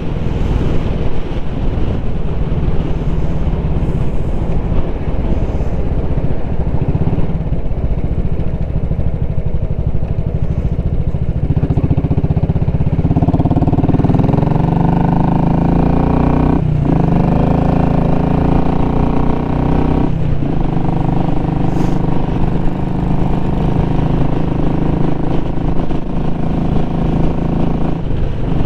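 Royal Enfield Classic 500's single-cylinder engine running through an exhaust with its baffle removed, heard from the moving bike as it rides along. About halfway in the exhaust note builds and becomes clearer, then breaks off briefly twice, as at gear changes.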